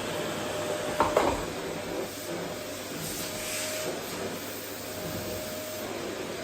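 Vacuum cleaner running steadily with a faint whine, and two sharp knocks about a second in.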